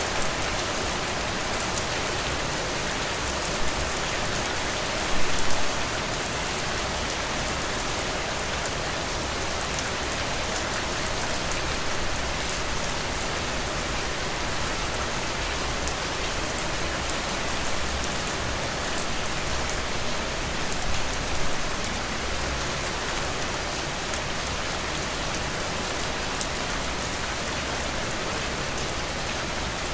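Heavy rain on a roof: a dense, steady hiss of falling rain. Brief louder swells come about five seconds in and again about twenty seconds in.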